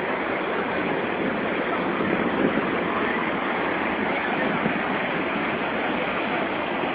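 Steady rushing water of the Santo Antônio falls, rapids on the Madeira River, heard as an even, unbroken noise.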